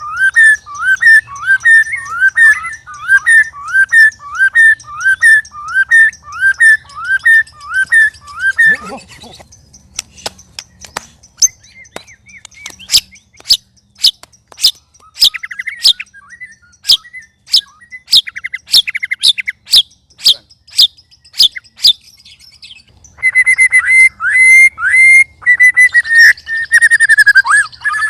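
White-rumped shamas calling: a long series of repeated rising whistled notes, then a run of sharp ticking clicks with some chatter, and whistling again near the end.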